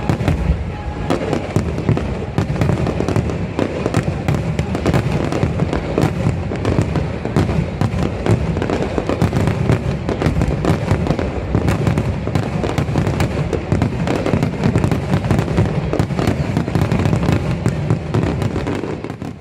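Aerial fireworks going off in a dense, rapid barrage of booms and crackles, many bursts a second without a break, fading out at the very end.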